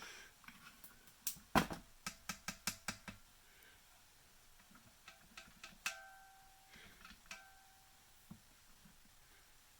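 Handling clicks and taps on a Big Launcher line launcher: a quick run of about eight sharp clicks, then scattered clicks, a few near the middle with a brief ringing tone.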